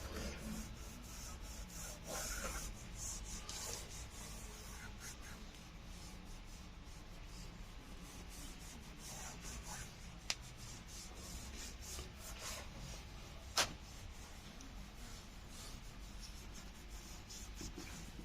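Irregular rubbing and scraping from hands working the sunroof glass and its seal, with two sharp clicks, one about ten seconds in and another about three seconds later.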